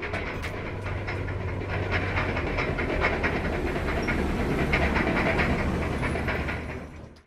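Steady, dense machinery noise with a constant low hum, fading out near the end.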